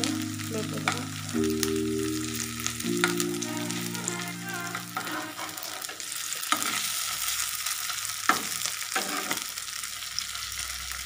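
Battered fish fritters sizzling in hot oil in a nonstick frying pan as they are turned, with a steady crackling hiss. A spatula scrapes and knocks against the pan a few times in the second half.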